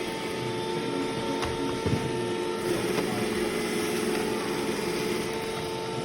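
iRobot Roomba Combo j5 robot vacuum running: a steady motor hum with a constant pitch over the rush of its brushes and suction, with a few faint knocks.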